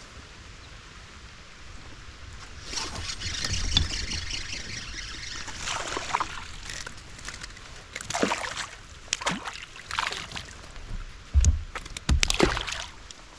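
Water trickling and splashing around a kayak, with a series of short splashes and two heavier thumps near the end.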